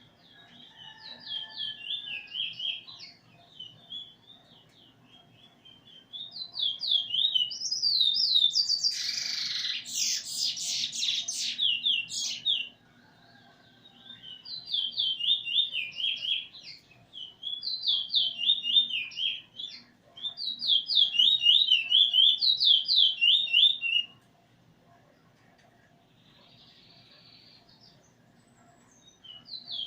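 A songbird singing long phrases of fast, rapidly alternating whistled notes, several phrases a few seconds long with short pauses between them. A louder, harsher burst comes about 9 to 12 seconds in, and the song stops for several seconds before a new phrase starts near the end.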